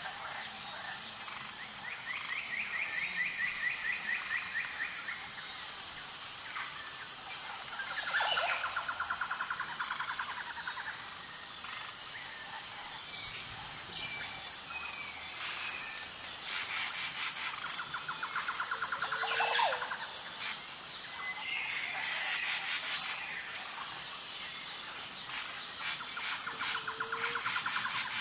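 Nature ambience: a steady high-pitched insect chorus, pulsing evenly, under bird calls. The calls come as repeated rapid trills a couple of seconds long, with scattered chirps and a few downward-sliding calls.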